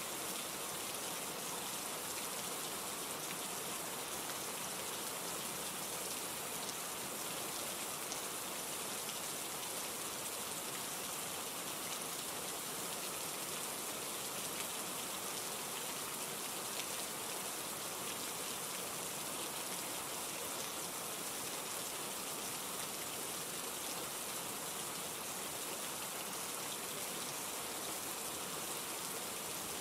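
Steady rain falling, an even hiss with fine drop patter and no change in intensity.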